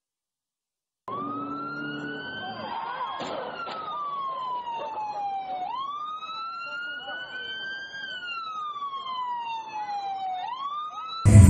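Emergency vehicle siren in a slow wail: the pitch climbs quickly, then sinks slowly over a few seconds, repeating about twice. It starts suddenly about a second in, and there is a short sharp click around three seconds in.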